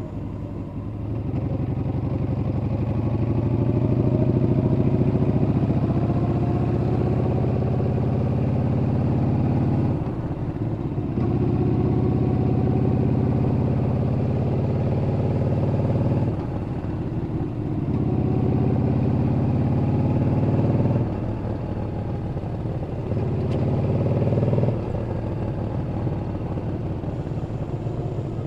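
Yamaha XV950 (Bolt) air-cooled V-twin engine heard from the riding motorcycle, its note climbing under throttle. The note dips briefly about four times before picking up again.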